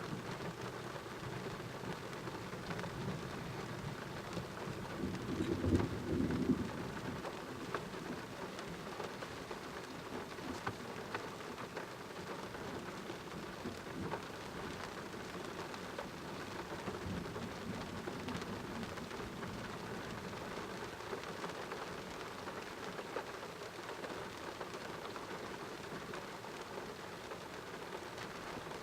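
Steady rain falling during a thunderstorm, with a low rumble of thunder swelling about five seconds in and a fainter one later.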